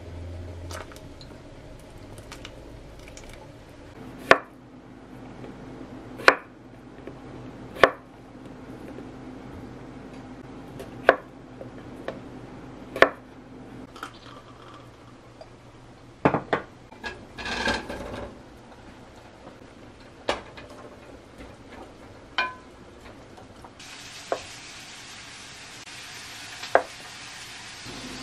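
Utensils and dishes clinking and knocking against a cooking pot as stew ingredients are put in and stirred. The sharp clinks come every couple of seconds, with a short run of rattling about two-thirds of the way in. A steady hiss sets in near the end.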